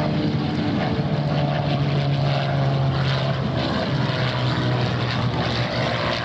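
North American T-6 Texan's radial engine and propeller droning loudly as it flies past, dropping slightly in pitch about four seconds in.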